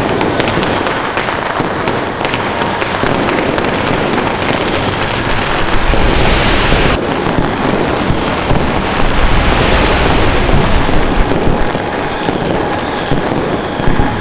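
Strings of firecrackers going off in a dense, unbroken crackle of rapid bangs, heaviest about six to seven seconds in.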